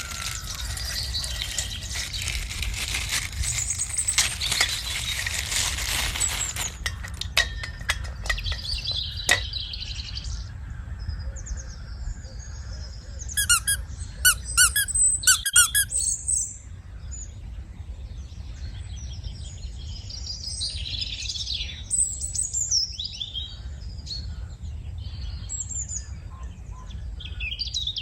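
Water gushing and splashing from a popped plastic bag with plastic crinkling, then scattered clicks. About halfway through comes a quick run of sharp, high squeaks, followed by lighter rustling and squeaking.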